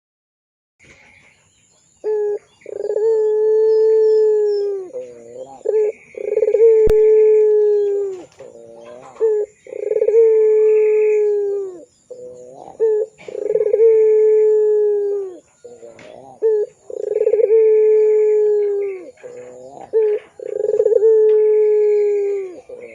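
Puter pelung dove (Barbary dove) cooing: about six long, steady coos, each dropping in pitch at the end, with short wavering notes between them, beginning after a couple of seconds of silence.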